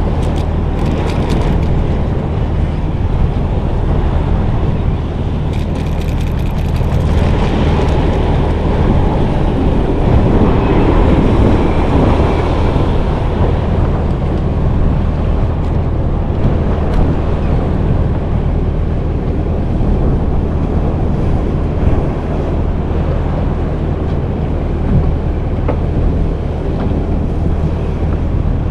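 A boat's motor running with a steady low hum, under wind buffeting the microphone and the wash of water.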